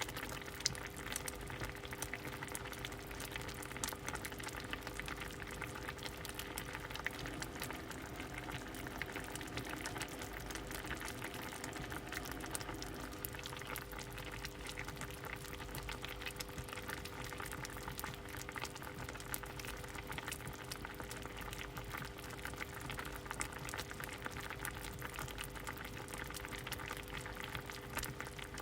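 A pot of soup boiling: steady bubbling with many small pops and crackles, over a faint steady hum.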